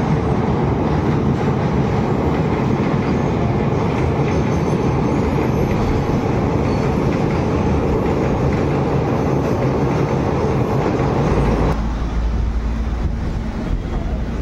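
Express passenger train running along the track: a steady rumble and rattle of wheels on rail. About twelve seconds in, the sound changes abruptly, losing much of its higher rattle and leaving a deeper, duller rumble.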